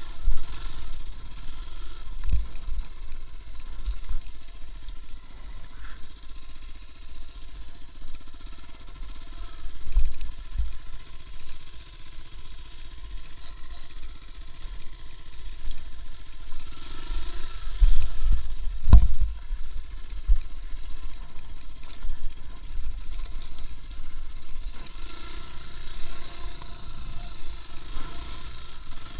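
Running noise of a moving motor vehicle: a continuous low rumble with occasional bumps, the heaviest about two-thirds of the way through.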